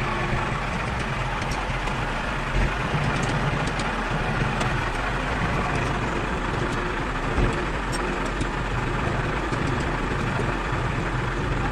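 An engine running steadily at idle, with a low steady hum and faint scattered ticks over it.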